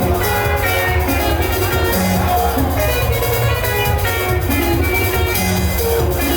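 Live band music, instrumental: quick plucked electric guitar lines over a steady bass and a regular drum beat.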